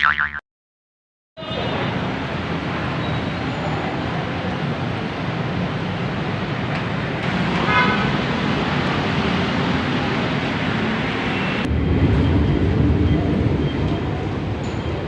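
Steady road traffic noise, with a brief vehicle horn toot about eight seconds in. It starts after a short cartoon-like sound effect and a second of silence.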